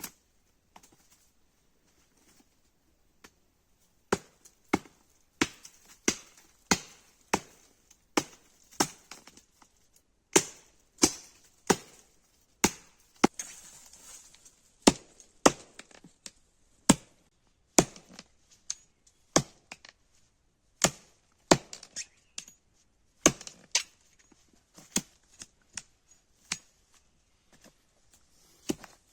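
An axe or hatchet chopping wood in steady repeated strikes, about one and a half a second, starting a few seconds in and broken by a few short pauses.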